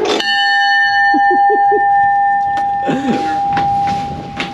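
A big bell struck once, ringing on with a long, slowly fading tone made of several pitches.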